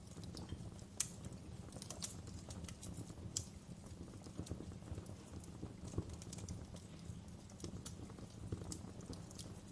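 Wood fire crackling in a fireplace: irregular sharp pops and snaps over a steady low rumble of the flames, the loudest pops about a second in and again near three and a half and six seconds.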